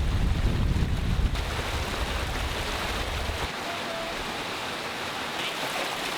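Wind buffeting the microphone with heavy low rumble for about the first second and a half, easing off by about three and a half seconds in, over a steady rushing noise of wind and rain.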